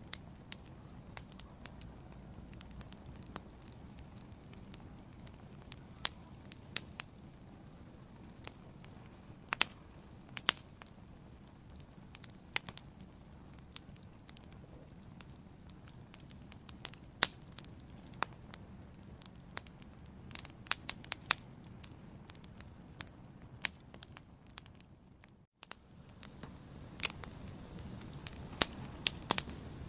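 Wood fire in a fireplace crackling: irregular sharp pops and snaps over a low, steady rumble of burning. Late on, the sound cuts out completely for a moment, then resumes.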